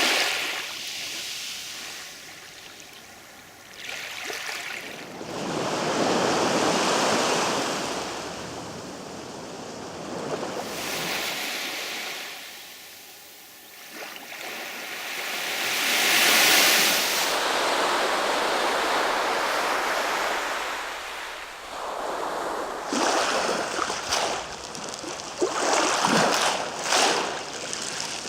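Sea waves breaking and washing in, the surf swelling and fading every several seconds, with choppier splashing near the end.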